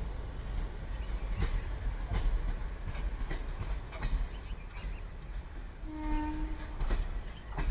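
Rear coaches of a departing Indian Railways express train rolling past, their wheels clattering over rail joints in irregular clicks over a low rumble. A brief steady tone sounds about six seconds in.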